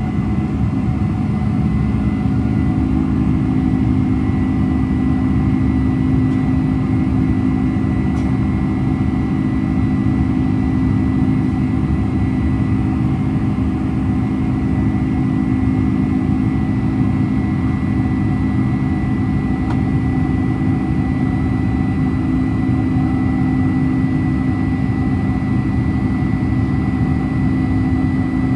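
Steady cabin drone of a Boeing 747-400's four turbofan engines and rushing air, heard from inside the passenger cabin. A low hum runs throughout with a faint high whine, and the hum steps up slightly in pitch about a second in.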